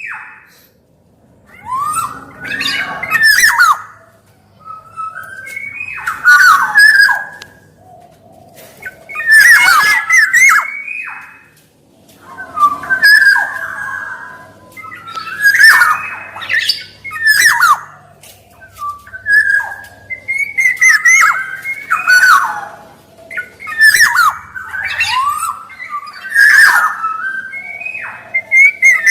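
Black-naped oriole (kepodang) calling over and over: short phrases of gliding, fluty notes mixed with harsh, nasal squawks, one every second or two with brief pauses between.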